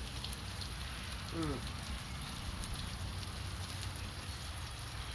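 Food sizzling steadily on a griddle with the heat turned down low, a soft, even crackle with fine scattered pops.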